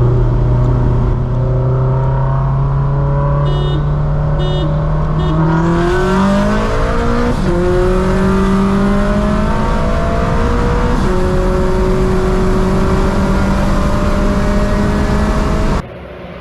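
Turbocharged Scion FR-S flat-four engine heard from inside the cabin, pulling hard under full throttle. Its pitch climbs slowly, dips twice in quick gear shifts about six and seven and a half seconds in, then holds a steady high drone. The sound drops away suddenly near the end.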